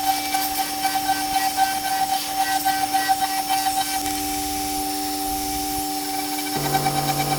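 CNC router milling an aluminium mold with a ball-nose bit: a steady spindle whine with a fast, even pulsing of the cut. About six and a half seconds in, a lower tone joins.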